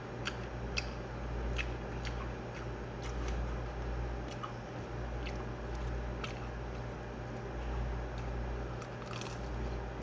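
Close-up chewing of a mouthful of food, with small wet mouth clicks scattered irregularly throughout, over a steady low hum.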